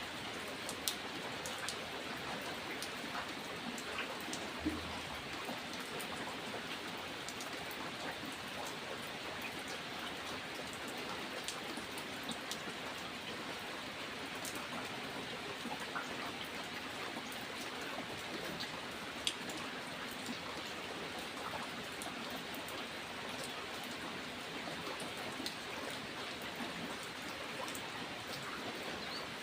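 Steady rain falling, an even hiss with many scattered individual drop ticks; a few drops land louder than the rest.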